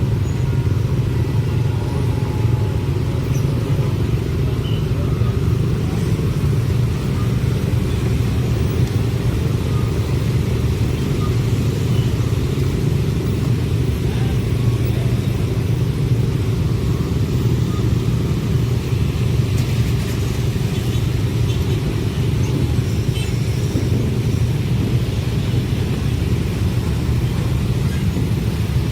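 A train passing close by: a steady, even low rumble that neither builds nor fades.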